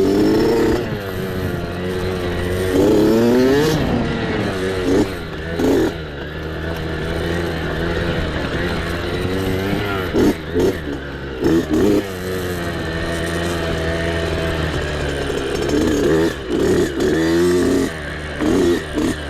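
Small off-road mini bike engine running, revving up and dropping back again and again as the throttle is worked over rough ground.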